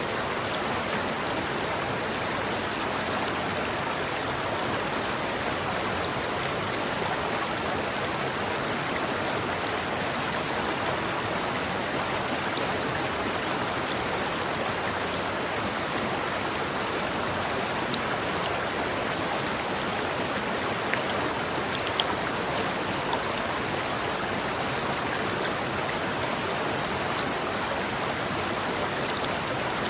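River water flowing over rocks in a steady rush, with now and then a small splash.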